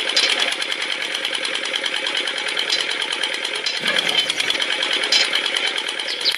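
Small motor of a homemade miniature tractor running with a fast, even rattle.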